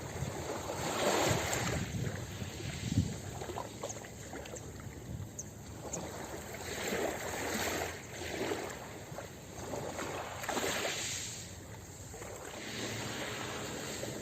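Ocean waves washing onto a beach, swelling and falling back in surges a few seconds apart, with one brief sharper slap about three seconds in.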